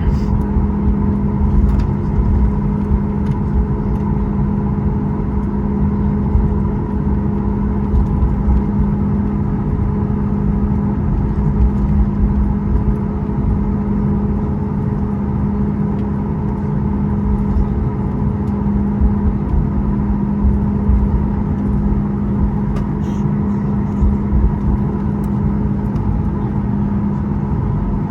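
Steady cabin noise of a Boeing 737 MAX 8 in flight: a constant low rumble of engines and airflow with a steady hum over it, heard from inside the passenger cabin.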